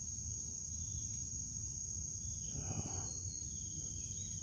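Steady high-pitched drone of insects in a summer chorus, with a low rumble beneath and a brief soft rustle a little under three seconds in.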